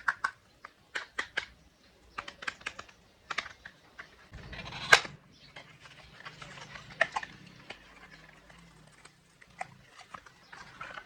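Irregular light clicks and taps of small plastic items being handled, likely an essential oil bottle and the humidifier's parts, with one louder knock about five seconds in.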